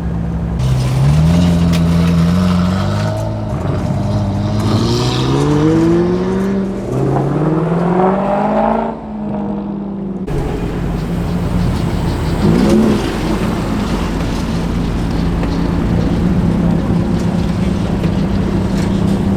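A car engine revving up through the gears, its pitch climbing several times and dropping back between. After an abrupt change, a car engine idles steadily, with one short rev a little past the middle.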